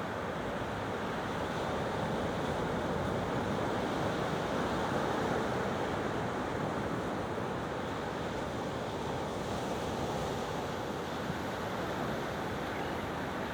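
Ocean waves washing onto a calm beach: a steady surf hiss that swells slightly about halfway through and eases again.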